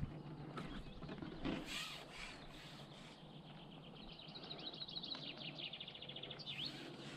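A small songbird sings a rapid, high trill of quickly repeated notes about four seconds in, lasting a couple of seconds and ending in a short swooping note. A brief rustle comes about a second and a half in, over faint outdoor background noise.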